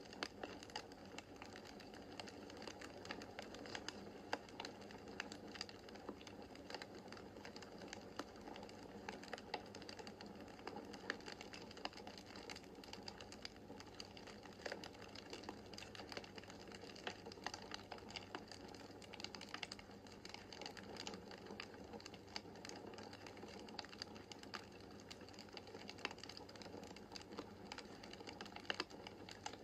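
Wood fire crackling in a fireplace: a steady soft hiss with frequent irregular snaps and pops, a few sharper ones standing out.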